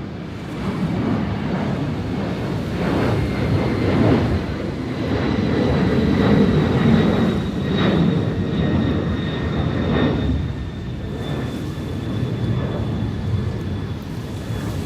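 An airplane passing overhead, its engine rumble swelling to a peak around the middle and easing off, with a faint high whine that slowly falls in pitch. Beneath it run the sea's surf and wind.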